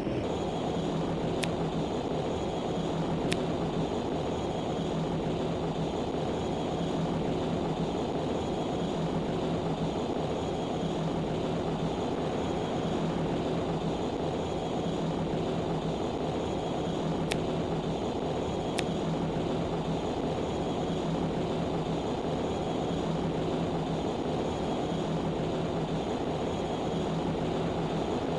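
Cargo ship's engine running steadily, a continuous mechanical drone with a low hum that wavers in level, and a few faint ticks.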